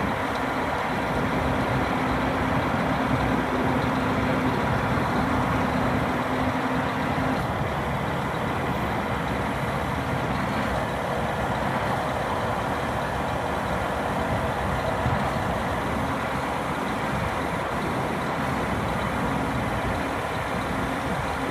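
Scania R480 crane truck's diesel engine running steadily, with a steady hum for the first several seconds.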